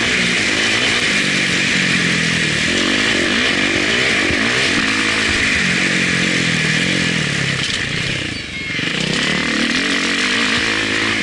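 Motocross bike engine heard from an onboard helmet camera, revving up and falling back again and again as the rider works the throttle through the gears. The engine sound dips briefly about eight and a half seconds in.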